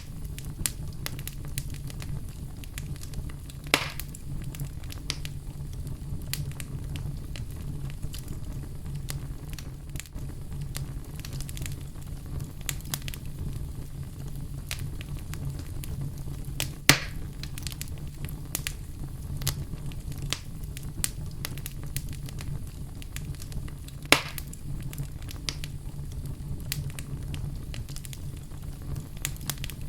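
Wood fire burning in a fireplace: a steady low rumble of flames with constant small crackles, and three louder sharp pops, about 4, 17 and 24 seconds in.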